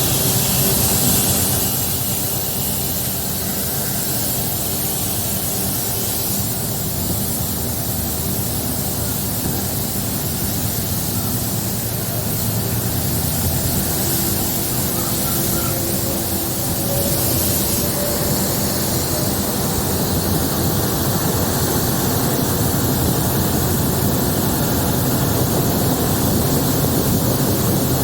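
Diesel electric multiple unit (DEMU) train running steadily, heard on board: a low engine hum over rushing air and rail noise, with a faint tone rising slowly in the second half.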